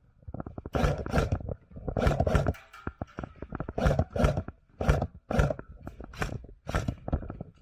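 Airsoft electric guns firing a rapid series of short full-auto bursts, roughly two a second, each burst a fast rattle of shots.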